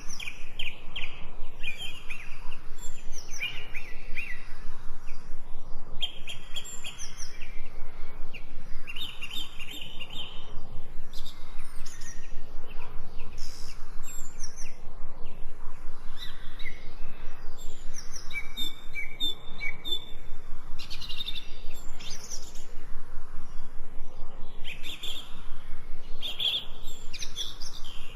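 Birds chirping and singing, with many short overlapping calls and trills.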